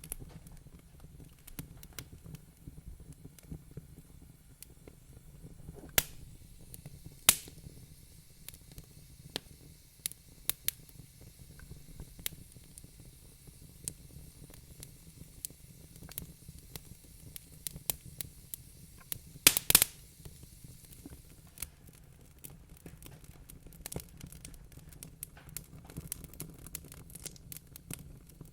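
Wood fire crackling in a fireplace: a steady low rumble with irregular sharp pops and snaps throughout, a few louder pops standing out, including a quick cluster about two-thirds of the way through.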